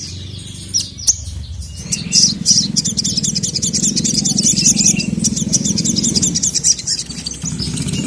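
Sogon (sogok ontong), a sunbird, singing a fast chattering song of high repeated notes, starting about two seconds in and breaking off shortly before the end.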